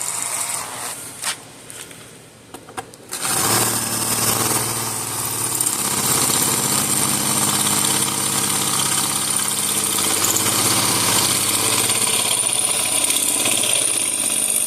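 Electric drill running steadily under load, its bit boring into the head of a stuck tri-wing screw with lubricant on it. It starts about three seconds in, after a few clicks.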